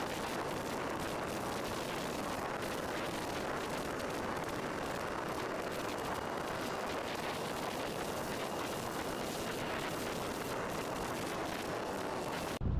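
Strong wind blasting over the microphone of a moving motorcycle as a steady rushing noise that hides the engine. Near the end it cuts off abruptly into a deeper rumble.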